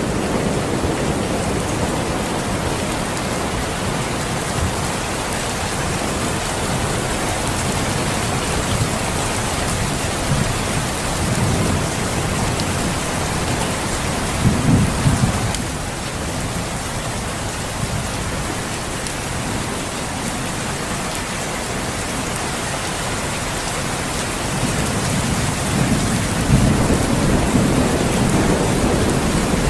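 Steady heavy rain, with low rolls of thunder about halfway through and again near the end.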